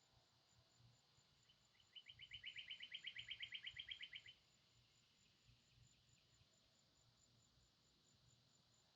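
A bird's rapid trill of about a dozen notes a second, building up and then stopping abruptly after about two and a half seconds, over a faint, steady, regular pulsing of insects.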